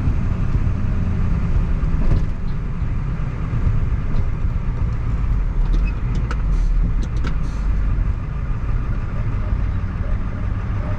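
Steady engine and road rumble heard from inside a moving vehicle's cabin, with a few faint clicks about six to seven seconds in.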